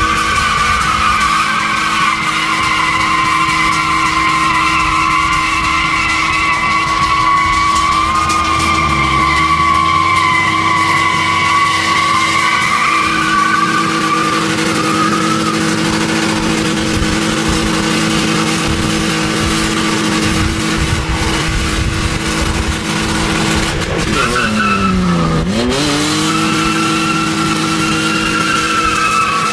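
A heavy vehicle's engine running steadily. About 24 seconds in its pitch drops sharply and climbs back again.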